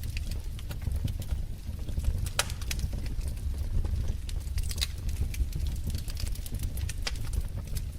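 Wood fire crackling: irregular sharp pops and snaps, a few of them louder, over a steady low rumble of burning.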